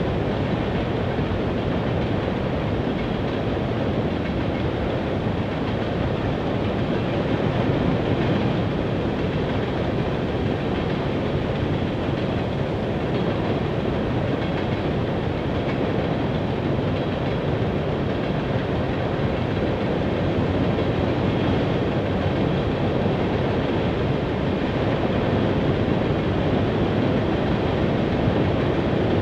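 Loaded coal cars of a Canadian Pacific freight train rolling steadily across a steel truss bridge: a continuous rumble and clatter of wheels on rail.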